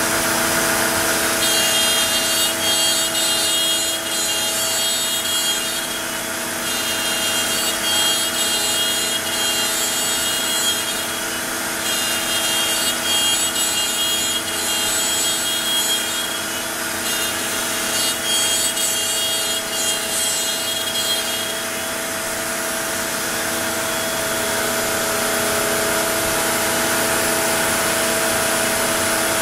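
Onefinity CNC router spinning a small bit and cutting the stock: a steady whine, with a higher grinding of the bit in the material that comes and goes in passes of about three to four seconds.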